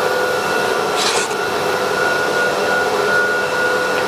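CNC router's vacuum hold-down pump running steadily, pulling air through the vacuum table, with a short hiss of air about a second in.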